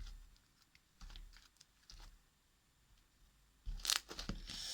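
A soft, sticky slime being worked in the hands, giving scattered small clicks and sticky snaps, with a louder crackling burst near the end. The slime is over-soft and sticking badly for lack of activator.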